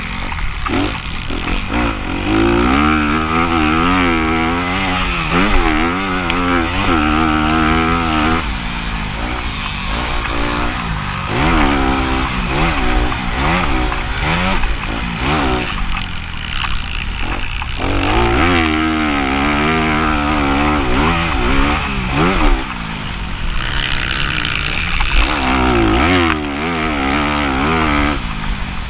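Motocross dirt bike engines revving hard, pitch climbing and dropping again and again as riders accelerate and back off around the track.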